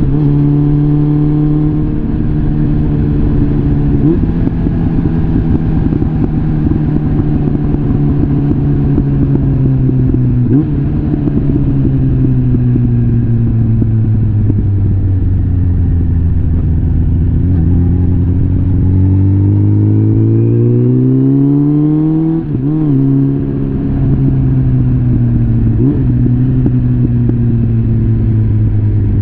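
Suzuki GSF650 Bandit's inline-four engine running through a full Arrow exhaust system while riding. The revs ease off early, hold and sag, then climb, and drop sharply at a gear change about two-thirds of the way through before settling again.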